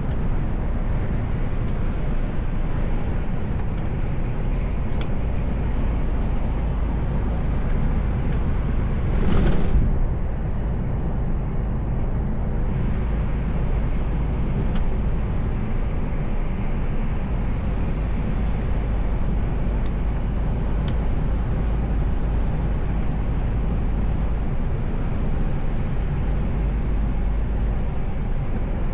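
Steady engine and road noise of a Mercedes Actros L truck under way, with a brief louder whoosh about nine seconds in.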